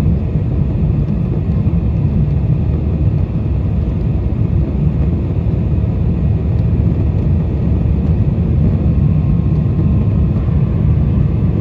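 Steady low rumble inside the cabin of a Boeing 747-400 in flight on approach: engine and airflow noise, even throughout.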